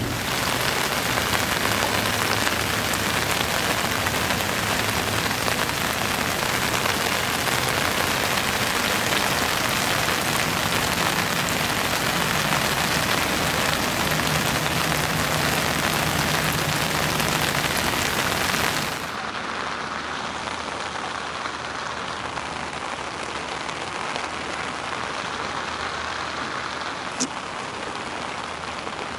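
Heavy rain falling on river water, a steady dense hiss. About two-thirds of the way through it drops suddenly to a softer, duller rain, with a single sharp click near the end.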